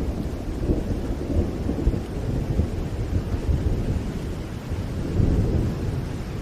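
Steady heavy rain with a deep, continuous rumble underneath, swelling briefly about five seconds in.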